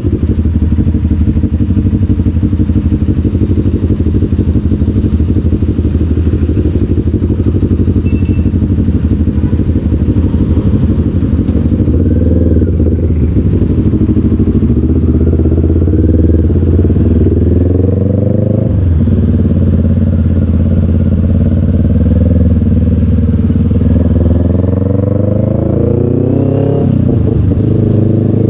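Motorcycle engine heard from the rider's seat, running low and steady while creeping in traffic. About halfway through it accelerates, its pitch rising through the gears and dropping sharply at two gear changes.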